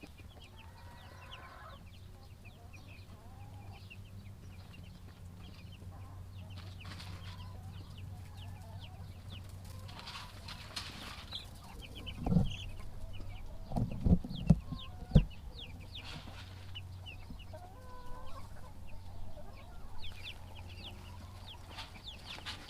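Cornish Cross broiler chicks, about a week and a half old, peeping continually: many short, high, falling cheeps over a steady low hum. A few dull thumps come about halfway through.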